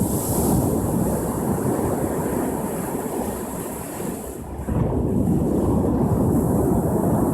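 Ocean surf rolling onto a shore: a steady rushing rumble that swells as one wave breaks at the start and another about five seconds in.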